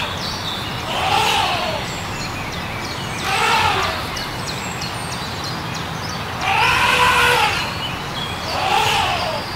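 Elephant trumpeting: four loud calls, each about a second long, rising and then falling in pitch, repeated every two to three seconds over a steady low background noise.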